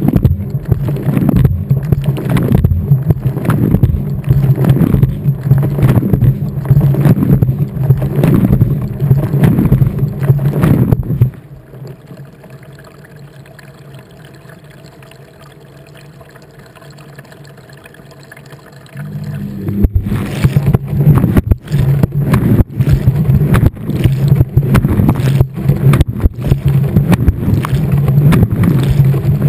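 Water and laundry sloshing and tumbling in a turning washing-machine drum, heard from inside the drum, over the steady hum of the machine's motor, with a splash about every second. About eleven seconds in the drum stops and it goes much quieter for about eight seconds, then the tumbling starts again.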